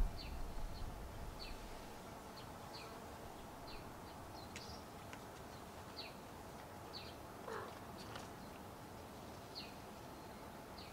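Faint outdoor ambience: a bird chirping over and over in short, high, falling notes about once a second, with one lower falling call about seven and a half seconds in, over a steady low background noise.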